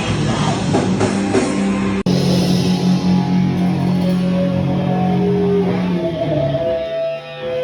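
Live rock band playing loud, with distorted electric guitar and drums. About two seconds in the sound cuts abruptly to held chords that ring on and die away near the end.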